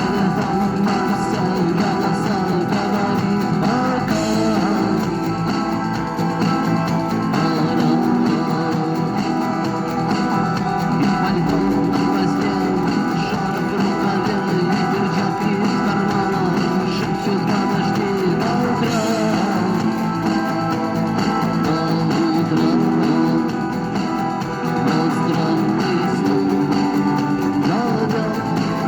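Guitar music: an instrumental passage of a rock song cover, playing continuously at a steady level.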